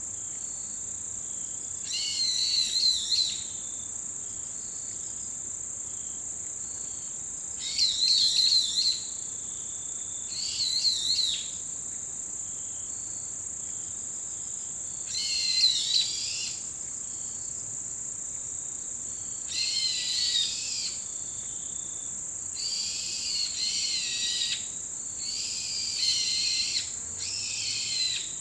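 Forest birds giving loud, wavering calls of about a second each, every few seconds and more often near the end, over an unbroken high-pitched trill of autumn insects.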